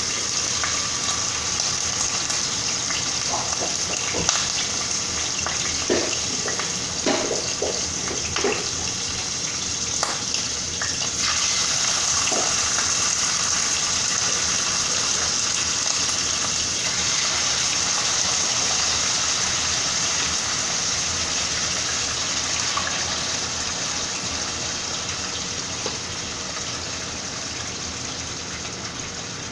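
Chicken thighs sizzling steadily as they pan-fry in hot olive oil in a skillet, with a few light clicks of a utensil against the pan in the first ten seconds. The sizzle eases off slightly near the end.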